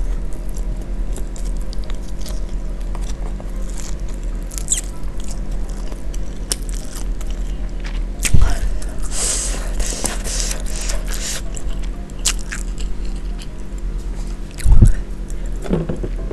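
Close-miked chewing and slurping of fried instant noodles: wet, irregular mouth sounds, busiest about eight to eleven seconds in, over a steady low hum. Two short loud low thumps break in, one about eight seconds in and one near the end.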